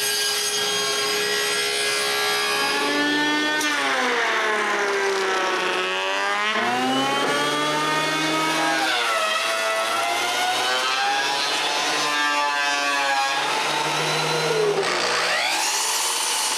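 A woodworking power tool's motor running under load as boards are fed through it: its whine holds steady at first, then from about three seconds in drops in pitch and recovers four or five times.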